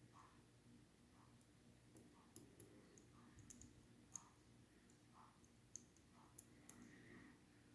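Faint, irregular metallic clicks of a pick and tension wrench working inside a Schlage Primus lock cylinder: about eight small ticks spread unevenly over several seconds.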